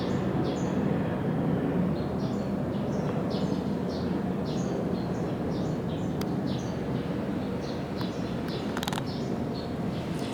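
Steady rumble of military jet engines running at the air base, with small birds chirping repeatedly over it.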